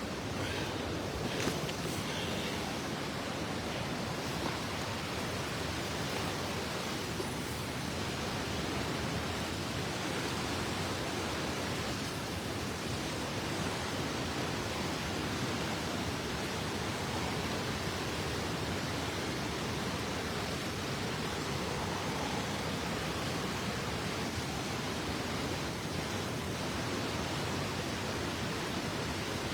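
Steady rushing of a waterfall and swift river water, an even unbroken noise.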